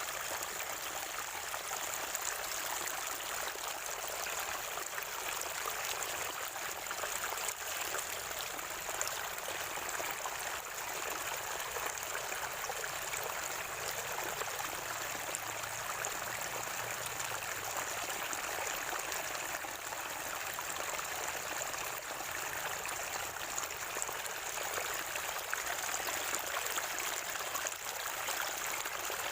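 Water from a natural spring flowing and gurgling in a steady trickle, with a faint steady high-pitched hiss above it.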